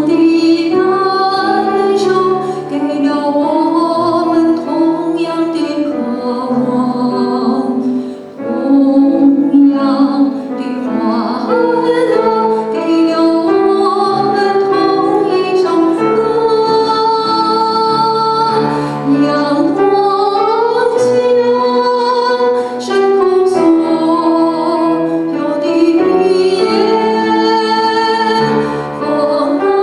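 A woman singing a melody with vibrato, gliding between sustained notes, over instrumental accompaniment.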